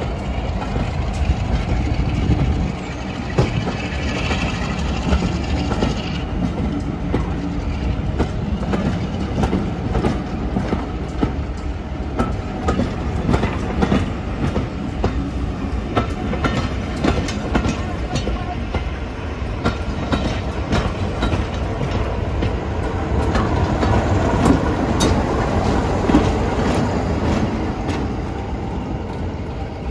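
Passenger coaches of a diesel-hauled train rolling past close by, their wheels clicking repeatedly over rail joints. Near the end a BR Class 33 diesel locomotive on the rear goes by, its engine rumble swelling.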